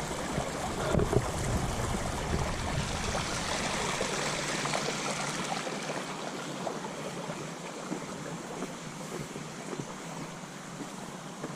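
Small creek flowing: a steady rush of water that slowly grows fainter through the second half.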